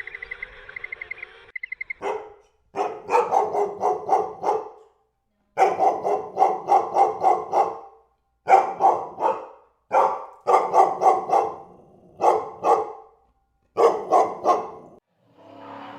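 A dog barking in rapid runs of short, sharp barks, about five or six a second, in several bursts broken by brief silences.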